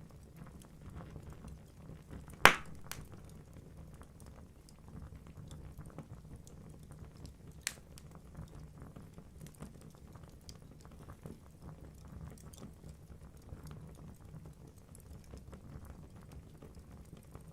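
Wood fire crackling in a fireplace: a steady low rumble of the flames with frequent small crackles, one sharp loud pop about two and a half seconds in and a smaller pop near eight seconds.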